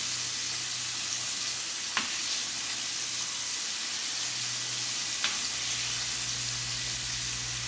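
Flour-coated pieces shallow-frying in a skillet of hot oil, a steady sizzle, with two sharp clicks of metal tongs against the pan as the pieces are turned.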